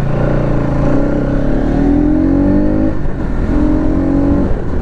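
Bajaj Pulsar NS200's single-cylinder engine accelerating on the move, its note rising steadily, breaking off at a gear change about three seconds in, then rising again before another shift near the end. A low rushing noise runs underneath.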